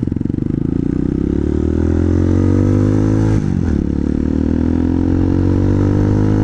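Hawk 250 enduro motorcycle's single-cylinder engine through an aftermarket exhaust, accelerating with its pitch rising steadily, a brief dip about three and a half seconds in as it shifts up a gear, then rising again.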